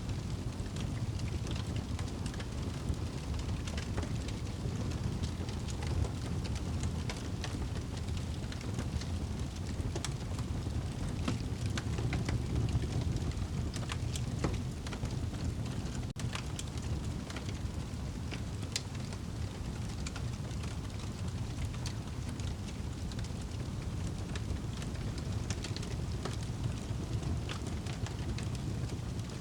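Wood fire burning in a fireplace: a steady low rumble of the flames with scattered sharp crackles and pops from the burning wood at irregular intervals.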